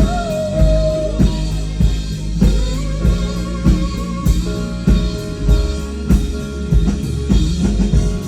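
Live band playing an instrumental stretch of a pop-rock song: a drum kit keeps a steady beat under guitar. At the start a held note bends up and sustains for about a second.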